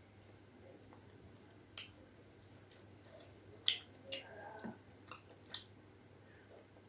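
Close-up eating sounds of someone chewing soft khichdi and chicken curry: a few short, sharp wet mouth clicks and smacks, the loudest about two seconds and nearly four seconds in, over a quiet background.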